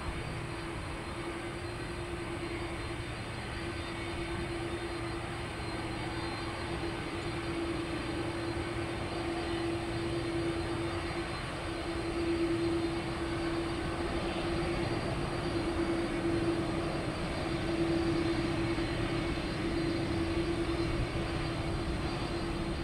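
Jet airliner engines running, a steady rushing noise with one constant humming tone that grows slightly louder.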